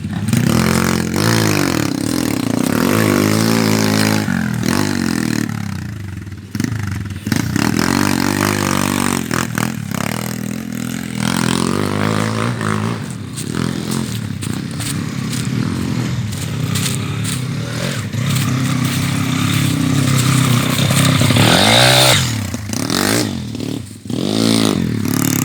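Walk-behind tractor (motoblock) engine running under load off-road, its revs repeatedly rising and falling.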